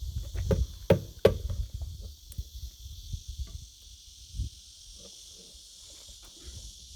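A run of knocks and clatter, loudest in the first second and a half, then fainter scattered taps, over a steady high hiss.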